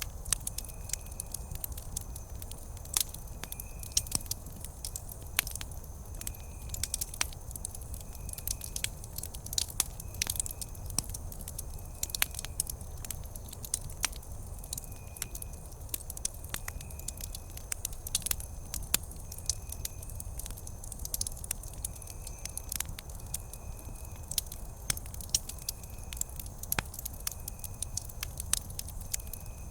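Wood campfire crackling, with frequent irregular sharp pops and snaps over a low steady rumble of the flames. A faint high chirp repeats about once a second throughout.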